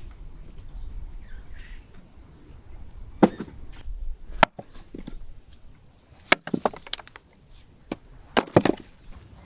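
A series of sharp, irregularly spaced wooden knocks and cracks, like chopping or breaking wood: single strikes about three and four and a half seconds in, a quick run of several after about six seconds, and the loudest cluster near the end.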